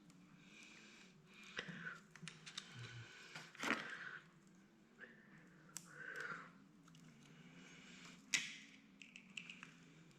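Small hand tools clicking and scraping on the metal of a tractor hydraulic pump's control-valve housing while prying at a brittle snap ring. The sharp clicks come at uneven intervals, the loudest about four seconds in and again near eight seconds. A faint steady low hum runs underneath.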